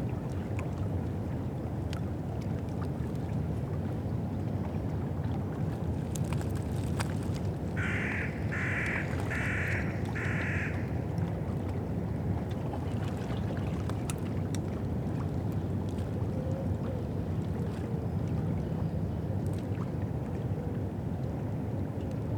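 Steady low wash of river water and wind on the Thames foreshore, with a crow cawing four times in an even series about eight seconds in.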